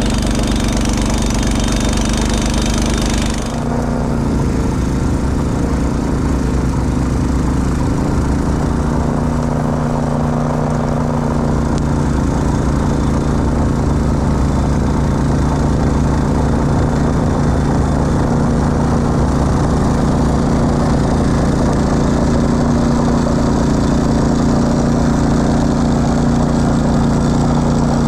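Honda snowblower engine running steadily, its tone changing abruptly about three and a half seconds in.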